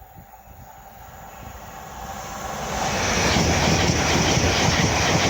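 LNER Azuma high-speed train approaching fast, growing steadily louder over about three seconds, then passing close by with a steady rushing roar of wheels and air.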